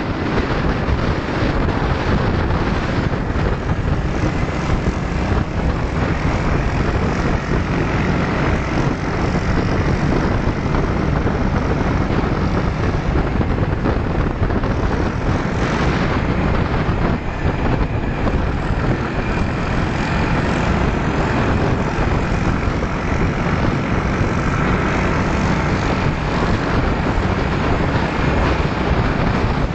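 Motor scooter engines running steadily on the move, with wind rushing over the microphone.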